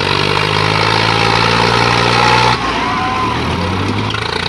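Diesel tractor engine running steadily. About two and a half seconds in, its sound changes abruptly, and a brief high whistle-like glide follows.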